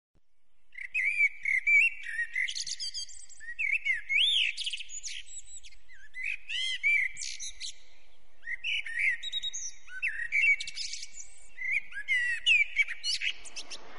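Songbirds singing: many short, high whistled and chirped phrases with rising and falling slides and quick trills, one after another with brief gaps.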